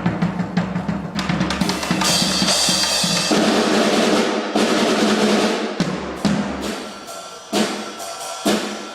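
A drum kit being played: quick snare and bass drum hits with cymbal crashes, the playing thinning out and getting quieter near the end.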